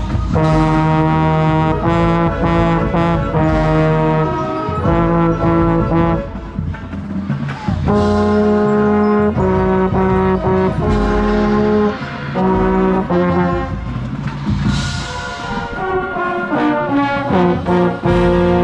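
High school marching band's brass section playing loud held chords that change every second or so, over low drums, with a bright crash about fifteen seconds in.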